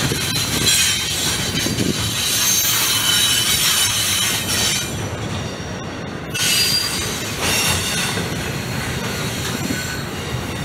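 Double-stack container freight train rolling past: steel wheels rumbling on the rails with a high-pitched wheel squeal. The squeal fades for about a second midway and comes back.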